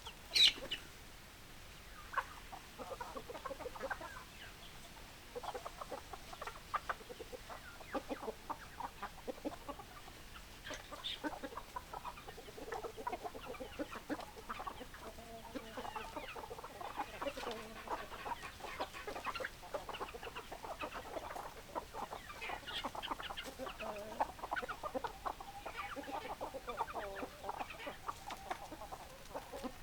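Hens clucking: many short clucks overlapping without pause, with one loud, sharp call just after the start.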